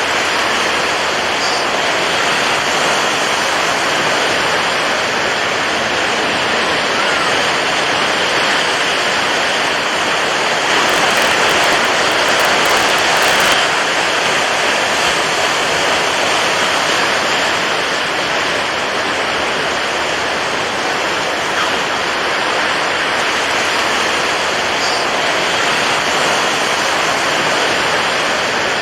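Steady rushing water, an even, unbroken wash, briefly a little louder and brighter about eleven to thirteen seconds in.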